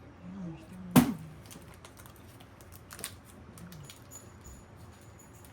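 Scattered clicks and taps of computer keyboard typing, with one loud click about a second in. Two brief low voiced hums come in between.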